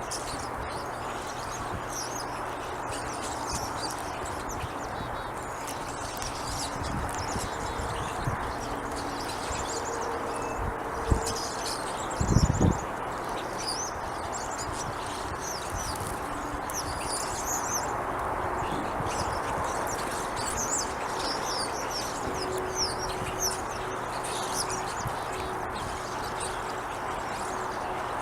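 Small wild birds chirping and twittering on and off over a steady background hiss. There are two short low thumps near the middle.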